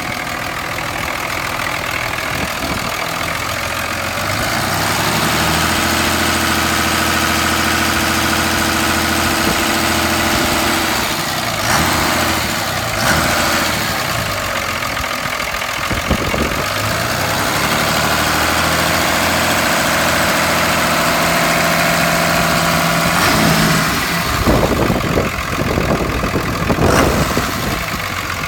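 A 2003 Ram's 5.9 Cummins inline-six turbodiesel running during an engine test. It is raised to a higher, steady speed about five seconds in, drops back around the middle, is raised again, then settles back near the end and runs unevenly.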